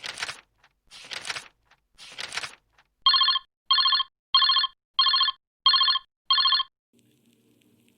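Ringing sound effect: three short rattling rings about a second apart, then six evenly spaced electronic beeps, each a chord of several high tones.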